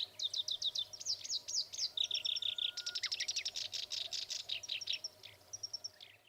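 Black-browed reed warbler singing at close range: a fast, varied stream of high, quickly repeated notes.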